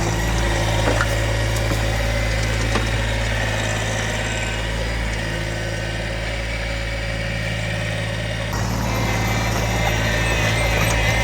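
Small tractor's engine running steadily, with a few light knocks early on and a slight change in its note about eight and a half seconds in.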